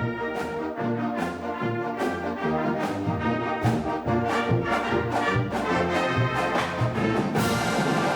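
Brass band music with a steady beat, about two beats a second.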